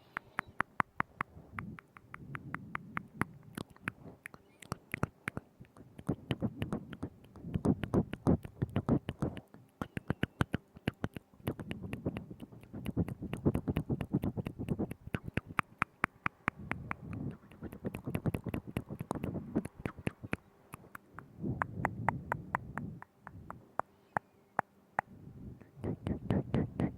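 ASMR mouth sounds made right against a binaural microphone: rapid clicks and smacks of tongue and lips in runs of a few seconds, with short pauses between runs.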